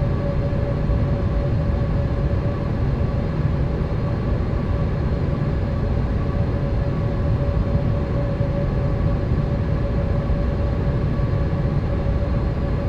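Steady cabin noise inside a Boeing 787 airliner: a constant low rumble of engines and airflow with a steady tone held over it.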